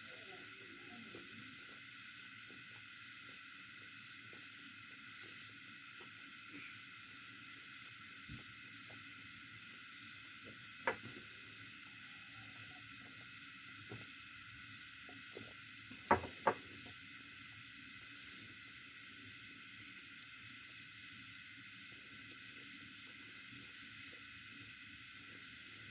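Steady background chorus of insects chirping in a rapid, even pulse, with a few sharp clicks, one about eleven seconds in and two close together about sixteen seconds in.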